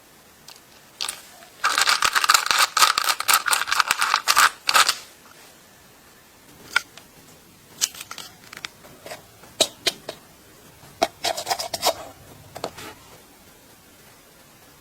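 Rapid scraping and scratching strokes with sharp clicks: a dense run about two seconds in lasting some three seconds, scattered clicks after it, and a shorter run of strokes near the end.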